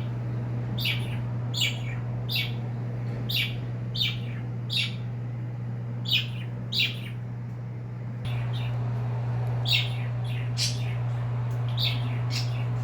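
Pet cage birds giving short, repeated chirps, each a quick falling note, about one a second with a pause past the middle, over a steady low hum that gets louder about two-thirds of the way through.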